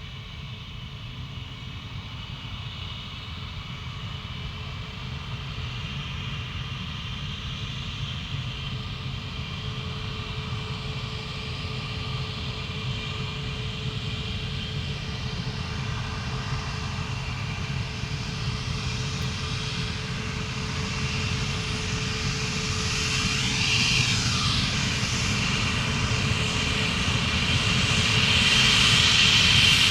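Airplane on landing approach, its engines running with a steady high whine and growing steadily louder as it draws near.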